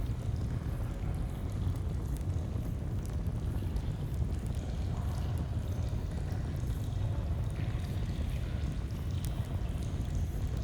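Steady rushing of a flowing stream, with the faint pop and crackle of a campfire now and then.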